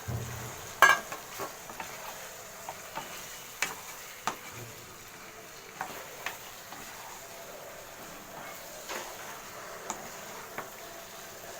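A spatula stirring chicken into a sizzling onion and chilli masala in a pan: a steady low sizzle with scattered sharp scrapes and knocks of the spatula against the pan.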